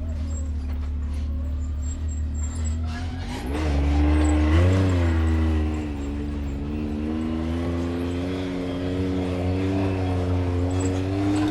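Off-road vehicle engine running under way, picking up revs about three and a half seconds in, then holding a fairly steady pitch with a low rumble.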